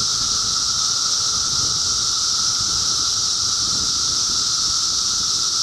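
Loud, dense chorus of periodical cicadas: a steady, unbroken high-pitched drone with a lower hum beneath it, never letting up.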